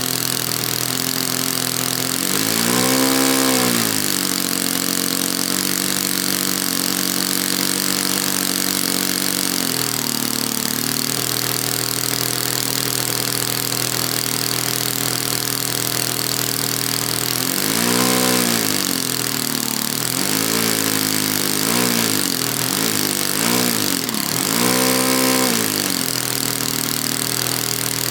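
H-King 120-size four-stroke glow (nitro) model airplane engine turning a propeller, running steadily at a low idle. The throttle is opened and closed briefly about three seconds in, then again in a cluster of short revs in the second half, each rising and falling back in pitch.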